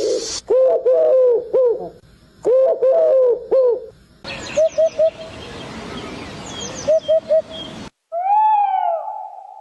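Bird calls: two runs of four low, arched cooing or hooting notes. After an abrupt cut, two sets of three short quick notes come over a hiss. After a second cut, a long call rises and falls, then settles into a held note.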